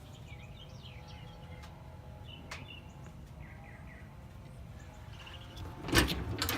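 Faint bird chirps over a low outdoor rumble, with a couple of light clicks. About six seconds in there is a louder knock.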